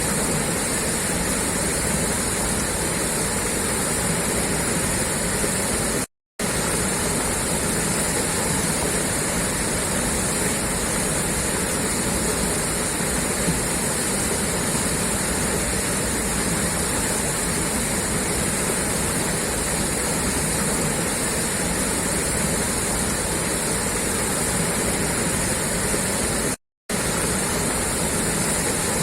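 Water gushing steadily out of a pipe outlet, a continuous rushing splash. The sound cuts out completely for a fraction of a second twice, about six seconds in and near the end.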